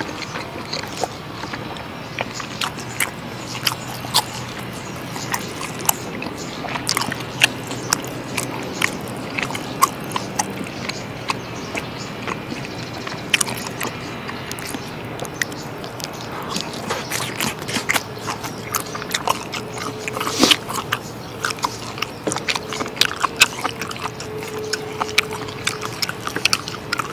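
Close-miked chewing of dry-aged steak, with many small sharp mouth clicks throughout, and occasional scrapes of a knife and fork on a wooden cutting board.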